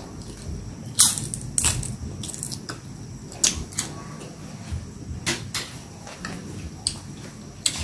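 Crunching and chewing of crisp fried dried shrimp: about ten irregular sharp crunches, the loudest about a second in.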